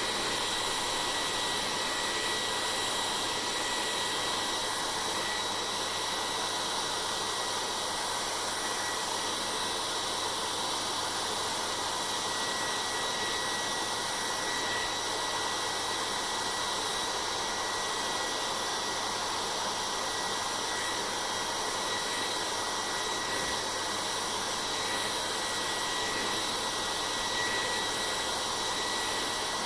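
Hair dryer running steadily: a constant rush of blown air with a thin, steady high whine that neither rises nor falls.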